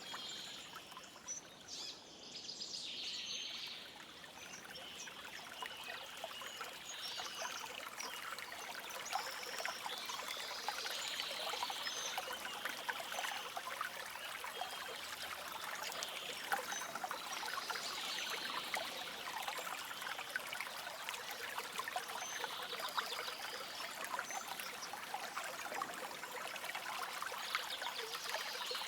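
A shallow forest stream trickling and splashing over stones, with soft birdsong recurring every few seconds above the water.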